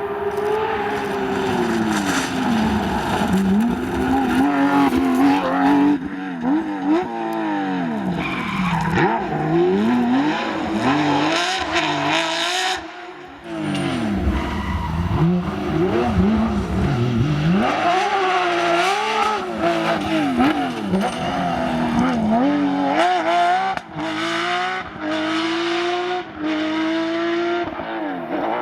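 Porsche rally car's flat-six engine revving hard, its pitch climbing and falling repeatedly as the driver accelerates, shifts and lifts for corners, with tyres skidding. The engine drops away briefly about halfway through.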